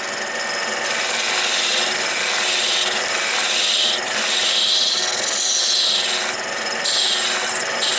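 Turning tool cutting into a wood blank spinning on a wood lathe: a steady scraping hiss that dips briefly about four seconds in.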